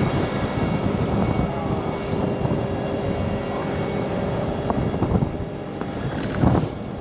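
Heavy truck diesel engine running steadily, with a steady whine holding for about three seconds in the middle.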